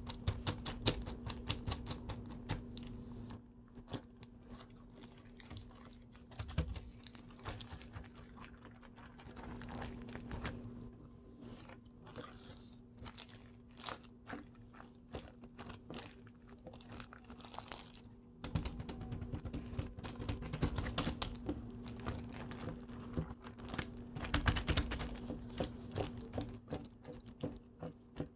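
Vinyl slime being squished, stretched and pressed by hand, giving dense crackling clicks and small pops, busier near the start and again over the last ten seconds. A steady low electrical hum sits underneath.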